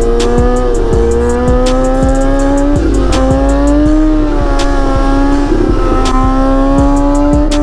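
Motorcycle engine held at fairly steady revs, its pitch slowly rising and falling, over background music with a regular ticking beat.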